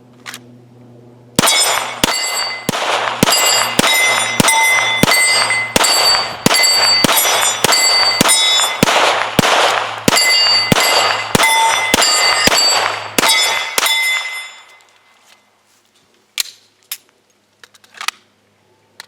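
Glock 17 9mm pistol firing a steady string of about two dozen shots, roughly two a second, with a ringing metallic clang hanging between the shots. A few light clicks come near the end, after the firing stops.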